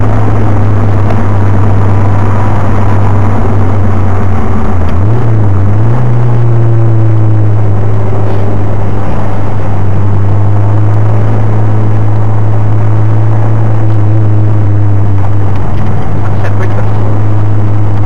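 Nissan Silvia S13's four-cylinder engine, heard from inside the cabin, running loud with a steady low note at speed on track. About five seconds in the pitch briefly dips and rises again.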